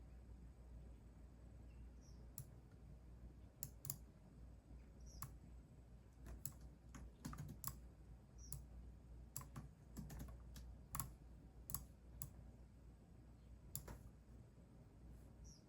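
Computer keyboard typing, faint: scattered, irregular keystrokes a few a second, with short pauses between runs.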